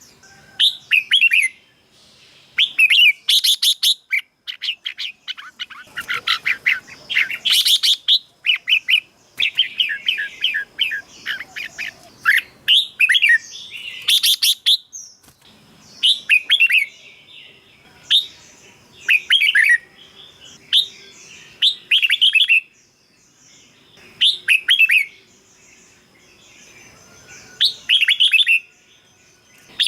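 Red-whiskered bulbul singing: short phrases of quick, bubbling notes, one every second or two, with a few louder, denser bursts.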